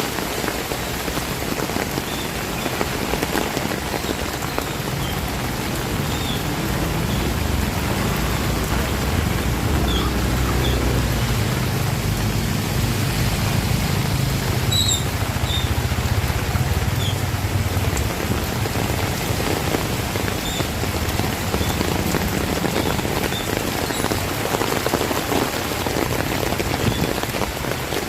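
Heavy rain falling steadily on surfaces. A low rumble swells in the middle of the stretch and then fades.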